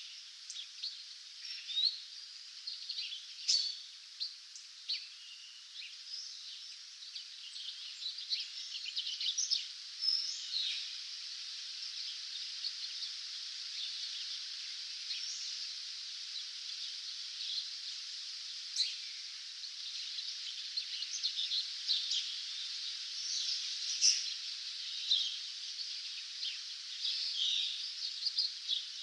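Dawn chorus: many small birds chirping and singing at once, in short overlapping calls and trills, over a steady high hiss.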